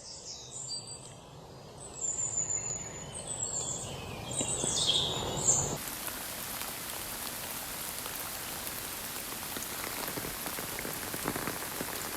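Heavy rain falling. In the first half, birds chirp over rustling and handling noises of the tent being packed up. About halfway in, the sound switches abruptly to steady rain alone.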